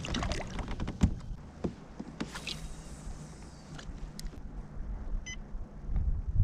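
Irregular clicks and knocks of gear being handled aboard a kayak, most of them in the first two seconds or so. A short electronic beep comes about five seconds in, over low wind rumble.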